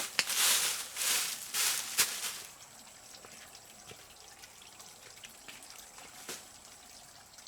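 Water splashing or pouring in a quick run of rushes, about two a second, that stops about two and a half seconds in. After that it is quiet apart from faint scattered ticks and a thin, steady high whine.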